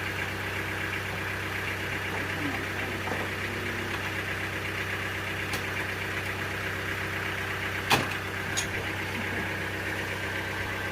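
Sawmill machinery's motor running steadily with an even hum. There is a sharp knock about eight seconds in and a lighter one just after.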